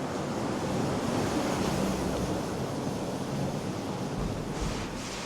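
A car driving across the wooden deck of a one-lane covered bridge: a steady low rumble that eases off near the end, with wind noise on the microphone.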